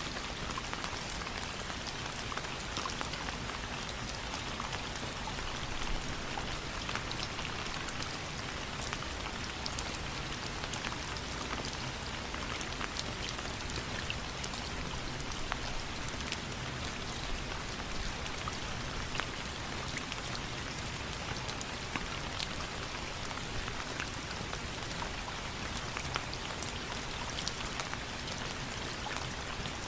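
Steady rain falling on a surface, with many sharp ticks scattered through it.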